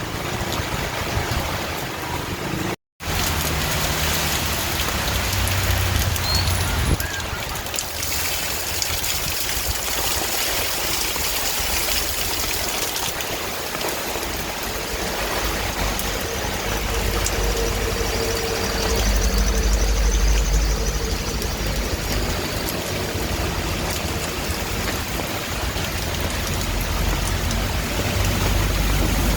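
Steady heavy rain, an even hiss of falling water, with a low rumble that swells in the middle and fades again. The sound cuts out completely for a fraction of a second about three seconds in.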